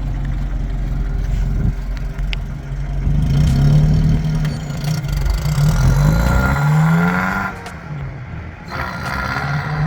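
1965 Alfa Romeo Giulia 1600 Spider's four-cylinder engine pulling under acceleration, its note climbing in pitch through the middle, easing off briefly, then pulling again near the end.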